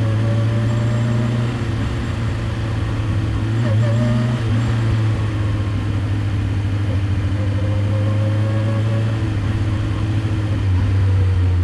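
Kawasaki Ninja H2's supercharged inline-four engine running at a steady, low engine speed. The pitch lifts briefly about four seconds in and drops lower near the end.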